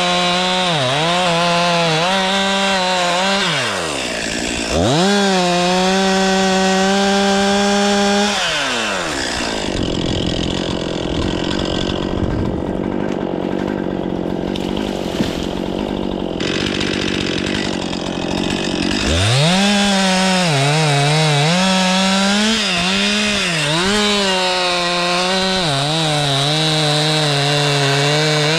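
Stihl 500i chainsaw, a fuel-injected two-stroke, revving hard and easing off several times. Through the middle it runs rough and noisy for about ten seconds as it cuts through wood. Near the end it goes back to revving with short dips.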